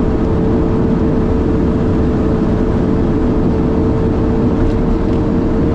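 Cab interior of a loaded Peterbilt garbage truck coasting downhill with its electronic engine brake holding it at 30 mph: a steady engine and road drone with a steady whine over it. The engine brake itself is not loud.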